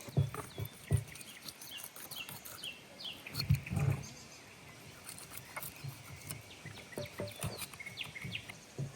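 Dull low thumps, a few near the start and the loudest cluster about three and a half seconds in, with birds chirping in the background and scattered light clicks.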